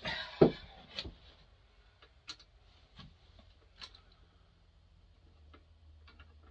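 Scattered knocks and light clicks of chainsaw parts being handled while a full-wrap handle is fitted to a Husqvarna 350 chainsaw. The loudest knock comes about half a second in, and a faint low hum comes in after a few seconds.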